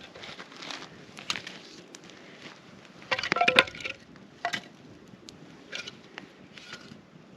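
Irregular scraping, crunching and clicking from cleaning out a raw pumpkin and handling its seeds, with a louder burst of clattering, ringing clinks about three seconds in.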